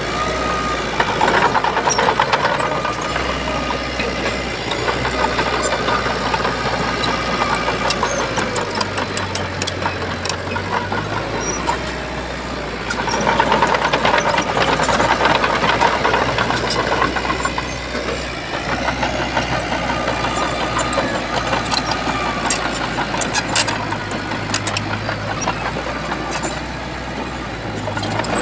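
Heavy diesel engine of a Shantui bulldozer working under load, its note swelling and easing several times, with scattered clanks.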